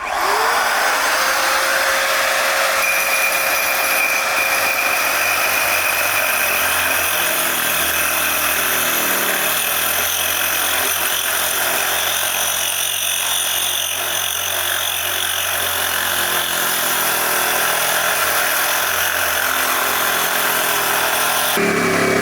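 An electric power tool, typical of a grinder working stone, starts up with its motor spinning up, then runs steadily under load with a dense, hissing grind. The sound changes shortly before the end.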